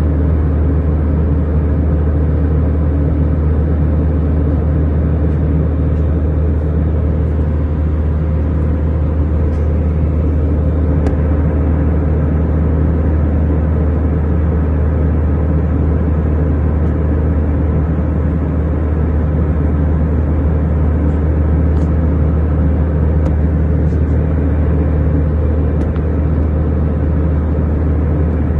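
Steady, loud cabin noise inside an airliner in flight: a continuous low rumble of engines and airflow with a faint steady hum above it, unchanging throughout.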